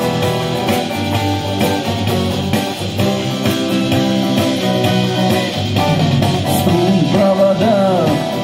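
Guitar-led rock music: strummed guitar chords over a bass line, with a melody line bending in pitch near the end.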